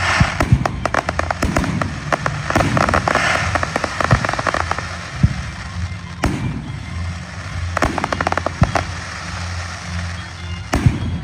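Aerial fireworks going off: dense rapid crackling in several clusters, with a few sharper single bangs between them.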